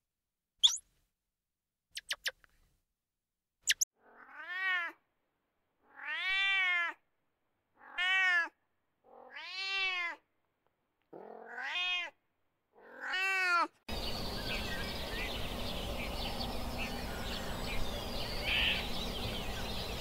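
A small spotted wild cat meowing six times, each call rising and then falling in pitch, about every second and a half. Before the meows come a few short, very high squeaks from a squirrel monkey. After the meows the sound changes to a steady background hiss with faint bird calls.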